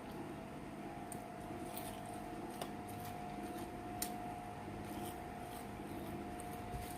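Close-up chewing and mouth sounds with a few sharp little clicks, over a steady low electrical hum.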